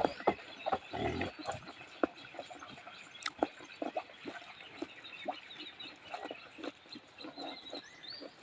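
Hungry pigs calling in short, irregular grunts throughout, waiting to be fed.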